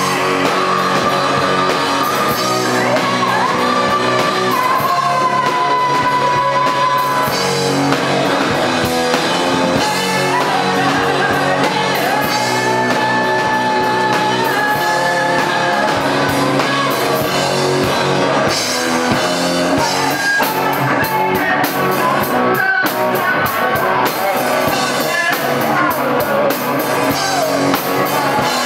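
Live rock band playing loud, with electric guitar and drums under sung vocals that hold long notes.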